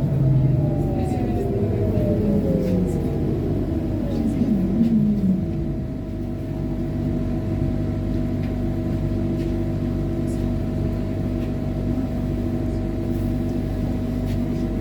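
Trolleybus electric drive whining down in pitch as the trolleybus slows over the first five seconds, then a steady electrical hum while it stands or creeps, with a few faint clicks.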